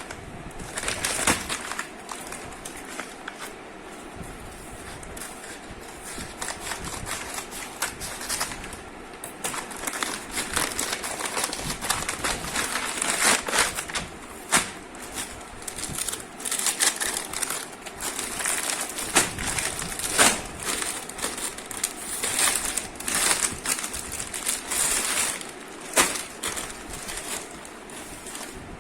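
Plastic packaging crinkling and rustling as a parcel is handled and unwrapped, with irregular crackles and a few sharp snaps.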